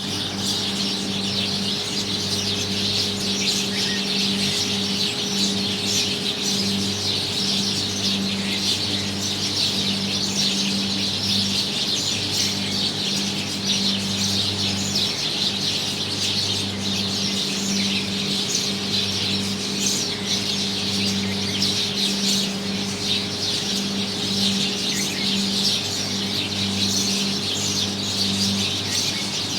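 Birds chirping continuously in a dense, high-pitched twittering of unidentified species, over a steady low hum.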